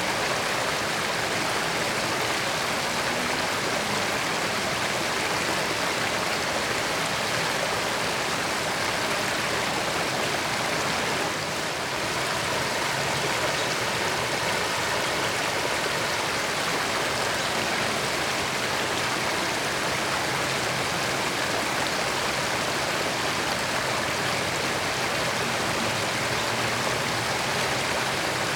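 A creek running over rocks: a steady, even rush of flowing water.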